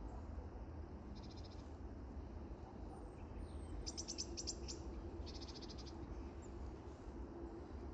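A small bird giving short, high-pitched trills three times: about a second in, louder around four seconds, and again near six seconds, over a steady low rumble.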